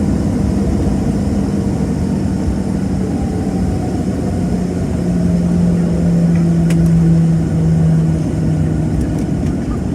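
Boeing 737-700's CFM56 jet engines running: a steady low rumble with a droning hum that swells louder between about five and eight seconds in, and a faint whine sliding slowly down in pitch in the first half.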